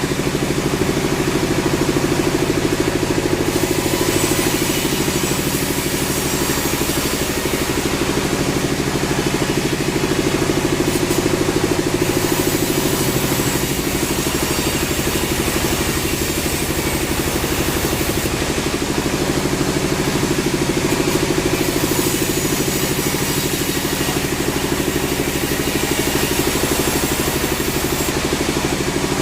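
Sawmill machinery running steadily with a deep engine-like drone. A higher hiss swells in and drops away in stretches of a few seconds.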